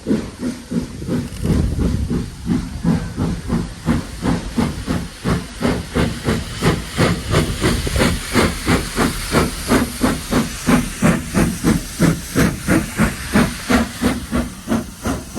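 Steam locomotive working under steam: a steady run of sharp exhaust chuffs, about three a second, with steam hiss between the beats, growing louder towards the middle and easing slightly near the end.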